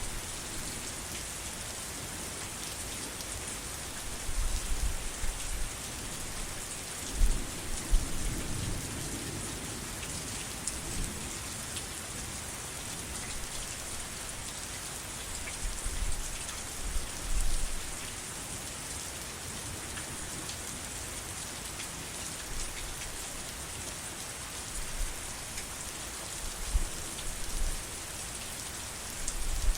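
Steady rain falling on a surface, with scattered low thumps and a low rumble about seven to ten seconds in, loudest around eight seconds.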